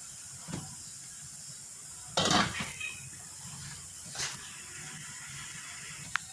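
Cookware handling: a few clanks and scrapes of a utensil against a cooking pot, the loudest about two seconds in and a sharp click near the end, over a steady low hiss.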